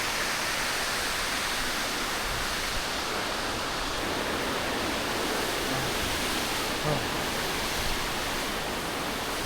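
Waterfall crashing down steadily, a constant rush of falling water.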